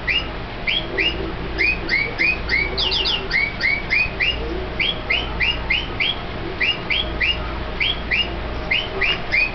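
Toy bird chirping electronically: a steady run of short chirps, two or three a second, with a quick burst of three chirps about three seconds in.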